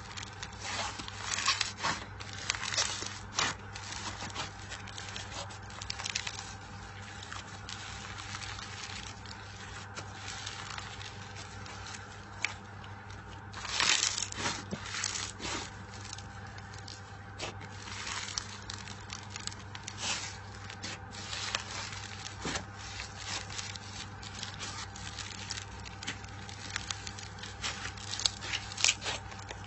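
Slime being squeezed and pressed by hand, giving irregular sticky crackles and pops, with a louder burst about fourteen seconds in. A steady low hum sits underneath.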